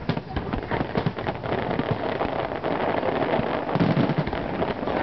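Fireworks crackling and popping in a dense, continuous rattle of small cracks, with a louder cluster of deeper bangs a little under four seconds in.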